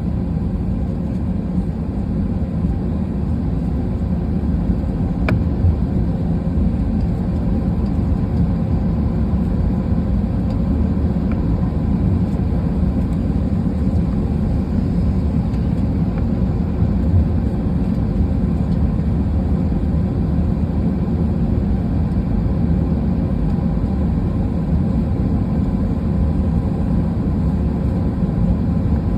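Steady engine hum and low rumble heard inside the cabin of an Airbus A320 jet airliner.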